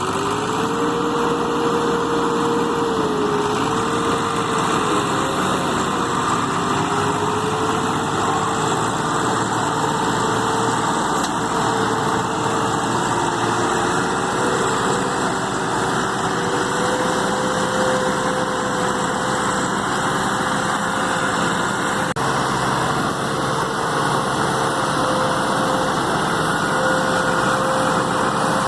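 Tractor engine running steadily under a constant throttle. It picks up speed right at the start, then holds, with a steady whine that wavers slightly.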